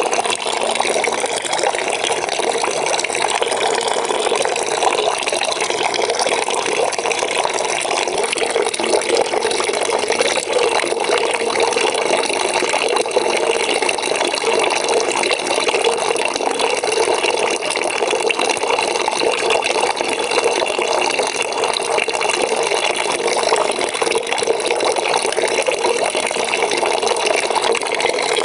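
Water running steadily into a bucket that is filling, a continuous splashing rush.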